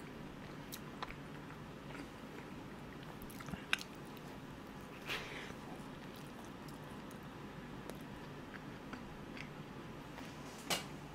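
A person biting into and chewing a cream-filled croissant: soft, quiet mouth sounds with scattered small clicks, a short crackle about five seconds in and a sharper click near the end.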